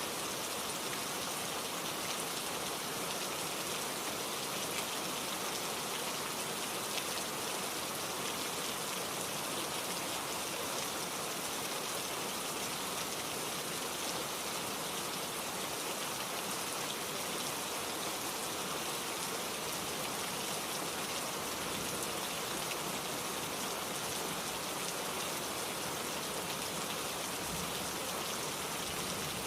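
Steady rain falling on surfaces, an even, continuous hiss of drops.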